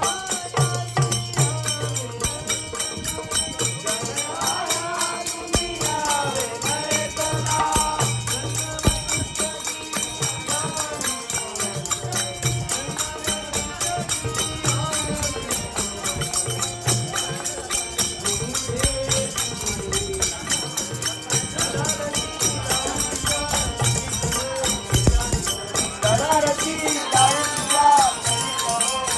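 Marathi devotional bhajan music: a sung melody over harmonium, with small hand cymbals keeping a fast, steady jingling beat and a low drum pulsing underneath.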